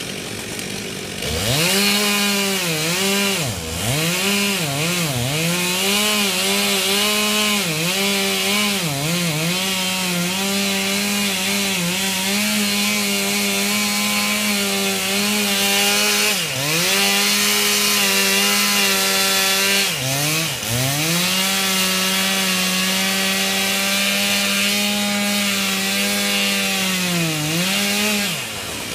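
Chainsaw running at high revs and cutting wood. It speeds up about a second and a half in, and its pitch dips sharply and recovers many times as it is throttled or loaded.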